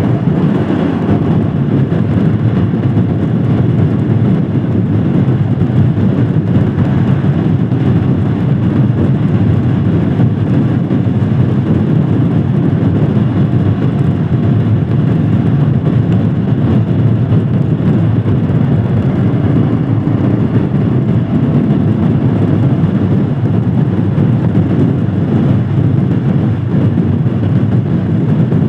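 Royal Enfield Scram 411 single-cylinder engine running steadily while the motorcycle cruises, mixed with road noise.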